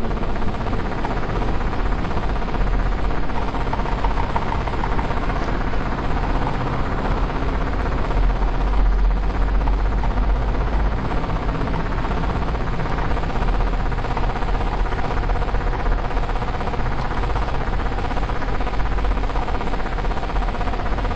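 CNC milling-engraving machine running steadily, a constant mechanical hum with several steady tones above it.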